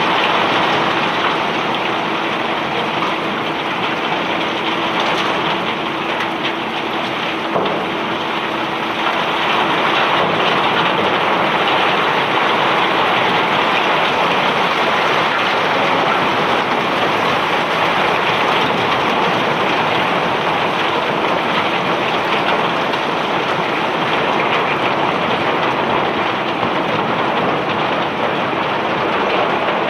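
Bulk rock pouring steadily off a self-unloading barge's conveyor as it discharges iron ore and river rock: a continuous dense rushing rattle. A faint machine hum underneath fades out about a third of the way in.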